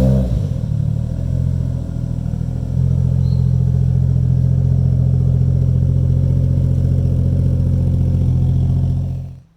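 Toyota 1JZ VVTi straight-six in a Supra, heard through its old 2.5-inch press-bent mild-steel exhaust. It starts with a loud flare, settles, then steps up to a steadier, louder idle about three seconds in, and cuts off abruptly near the end.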